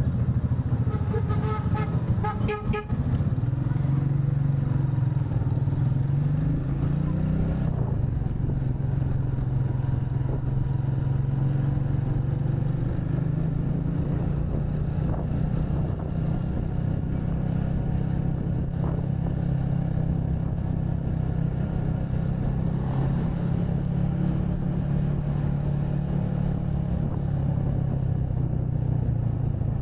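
Motorcycle engine running steadily under way in road traffic. A vehicle horn beeps twice, briefly, about a second or two in.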